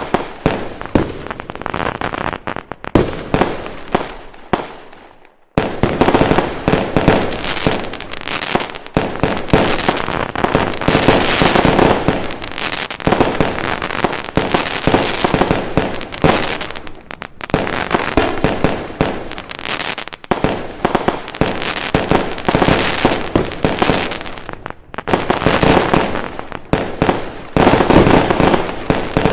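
Fireworks going off in dense volleys of bangs and crackling. The noise fades out about five seconds in, then starts again abruptly and keeps going thick and fast.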